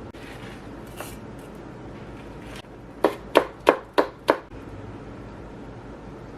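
Kitchen knife chopping on a cutting board: five quick, sharp strokes about three a second, after a single lighter tap about a second in.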